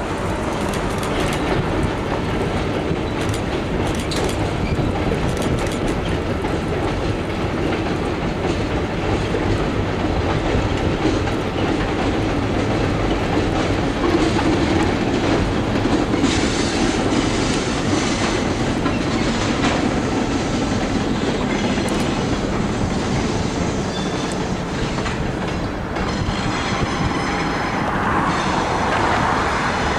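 A diesel switcher locomotive with its slug and a covered hopper rolling across a railroad bridge. The wheels run steadily, with scattered clicks over the rail joints.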